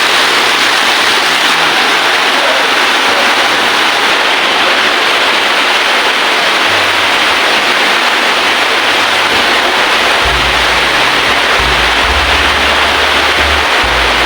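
Steady, loud rushing of water, like heavy rain or water pouring without a break.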